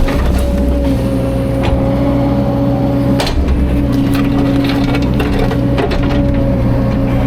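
CAT 305.5 mini excavator's diesel engine running steadily under work, with scattered knocks and cracks of wood being crushed and bumped as logs are handled.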